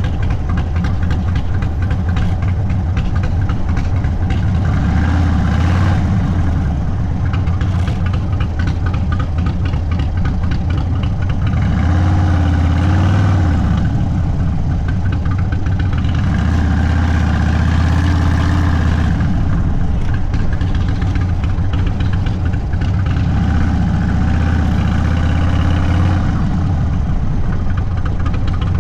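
Indian Sport Chief's V-twin engine running through an aftermarket Sawicki Speed exhaust while riding at low speed. The engine note rises and falls a few times as the throttle is rolled on and off, around 5, 12, 17 and 24 seconds in.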